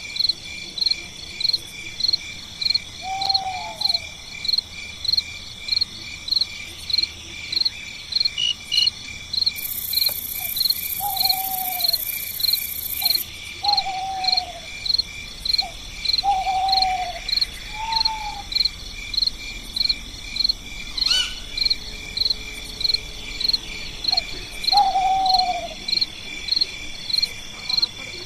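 Night insects chirping about twice a second in a steady rhythm over a continuous high insect drone. Now and then a short, low, falling hoot-like call sounds, six or so times.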